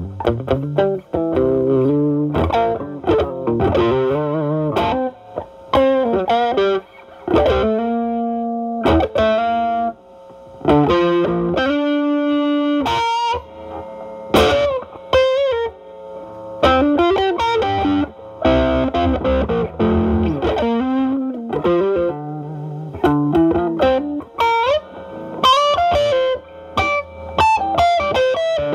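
Stratocaster electric guitar played through a Ceriatone Centura Klon-clone overdrive pedal set at low gain into a Marshall Valvestate amp's drive channel, with the guitar's volume rolled back for a cleaned-up, lightly overdriven tone. It plays improvised blues lead lines of single notes with string bends and a few held notes.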